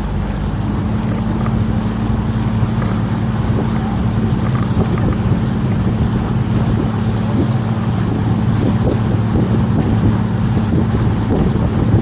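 Canal tour boat's motor running steadily with a low hum, with wind rumbling on the microphone.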